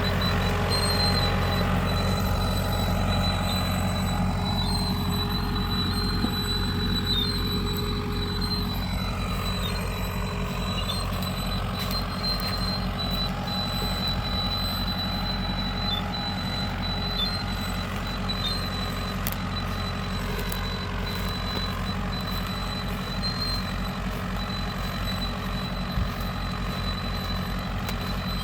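Ford 6600 tractor engine running steadily while plowing, a continuous low hum that eases slightly in level over the stretch.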